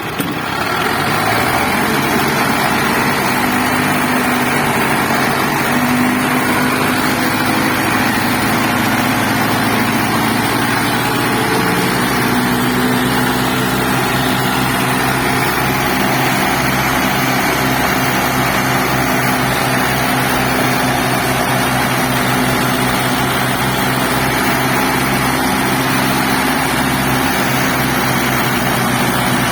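Old-model Hindustan tractor's diesel engine running steadily, with a small shift in engine speed about twelve seconds in.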